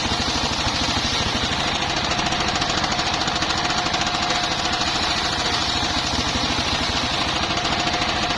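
Engine-driven circular sawmill running steadily, with a rapid, even pulsing and a steady high whine.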